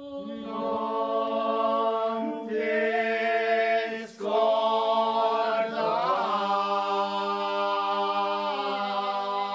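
A group of voices chanting a cappella, a traditional Holy Week confraternity chant, with several voices holding long notes together. The singing breaks off briefly about four seconds in, then goes on.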